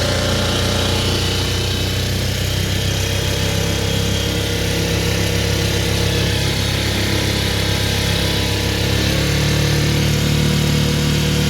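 Mercury 4 hp outboard motor running under way. Its note steps up and grows slightly louder about nine seconds in as it picks up speed.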